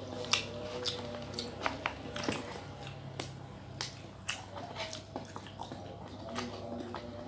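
Close-up eating sounds: irregular sharp bites and chewing clicks, about a dozen, over faint background music.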